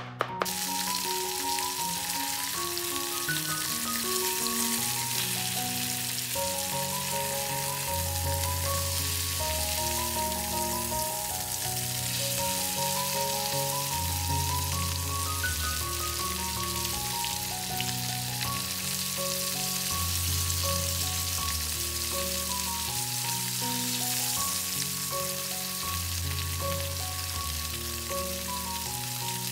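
Floured chicken breasts sizzling steadily as they fry in a pan, under background music. A last knife chop or two on the cutting board clicks right at the start.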